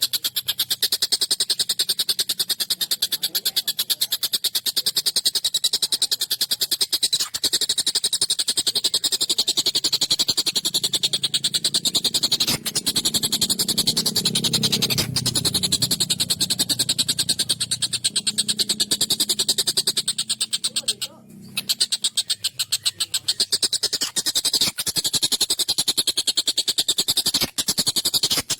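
Stork-billed kingfisher (tengkek buto) calling in a rapid, harsh, continuous rattling chatter, with a short break about 21 seconds in.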